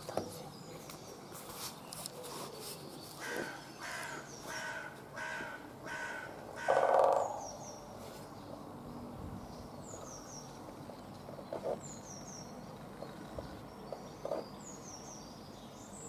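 Birds calling: a run of about six harsh calls roughly half a second apart, ending in a louder, lower one, with a small bird's high, thin falling chirps repeating later on.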